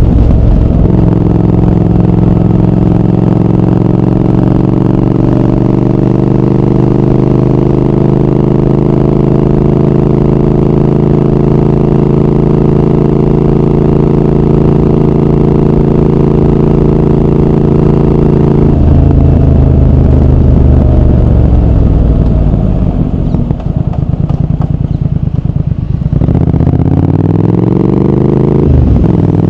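Triumph Speed Twin 1200's parallel-twin engine and exhaust under way, pulling steadily with its pitch slowly rising for most of the time. It then rolls off with the pitch falling, and pulls again near the end, with a quick gear change just before the close.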